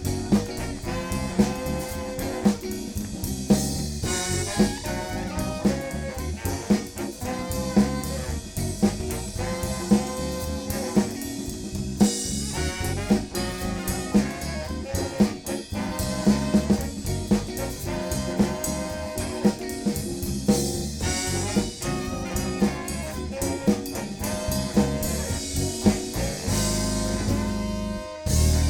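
Live soul band playing an instrumental passage: a drum kit keeping a steady beat under slap bass and a horn section. The band stops for an instant near the end and comes back in on a loud low hit.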